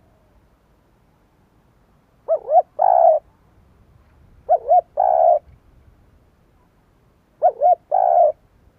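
Spotted dove cooing: three phrases about two and a half seconds apart, each two short quick notes followed by a longer coo.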